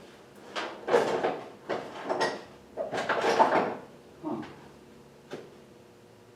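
Objects being moved and rummaged on a workbench: several short scraping, sliding bursts over the first few seconds, then a couple of light knocks.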